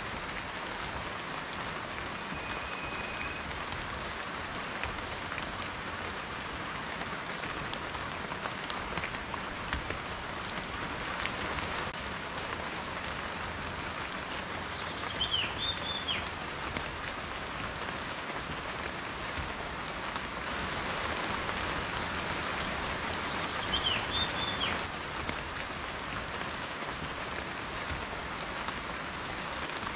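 Steady rain falling, with many individual drops ticking on a surface. Two short high chirps stand out, about halfway through and again later.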